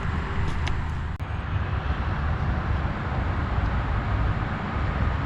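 John Deere Gator utility vehicle's engine running steadily as it drives under a heavy load of logs, with a steady low hum.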